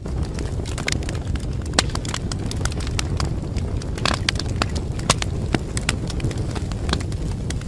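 Wood fire burning in a fireplace: a steady low rumble of flames with irregular sharp crackles and pops of burning wood, a brief flurry of crackling about four seconds in.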